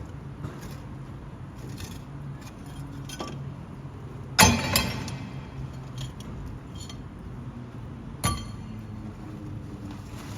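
A steady low engine hum with sharp metallic clanks: the loudest about four and a half seconds in, with a ringing tail, another a little after eight seconds, and lighter clicks between.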